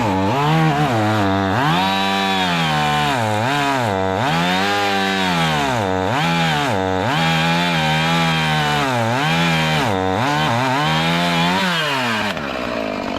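Chainsaw at high revs making the top cut of an open-face felling notch, its pitch sagging and recovering again and again as the chain bites into the wood. About twelve seconds in it drops back to idle.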